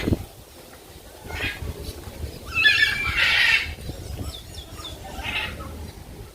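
Animal calls: a loud, wavering call about halfway through, with shorter, fainter calls before and after it.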